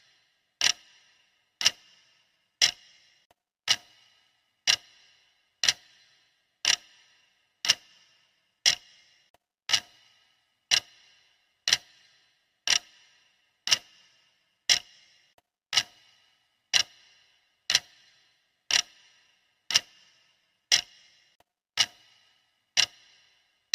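Clock ticking sound effect of a countdown timer: one sharp tick every second, evenly paced, each with a brief ringing tail.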